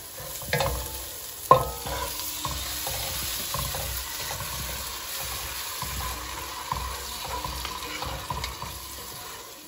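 A wooden spoon stirs and scrapes through onions and spices sizzling in hot oil in a nonstick pot while passata is poured in, with one sharp knock about a second and a half in.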